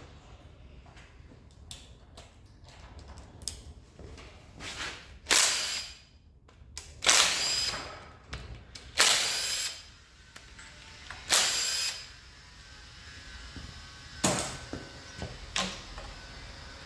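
A power tool run in about five short bursts, each half a second to a second long, with light clicks and knocks of tools and parts between them.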